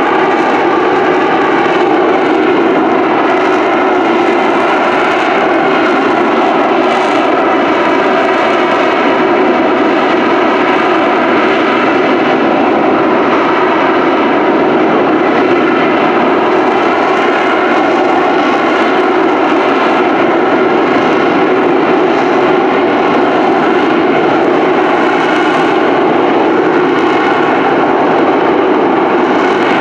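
Rolls-Royce Pegasus vectored-thrust turbofan of an AV-8B Harrier II jet running at high power: a loud, steady jet noise with a whine of several tones that waver slightly in pitch.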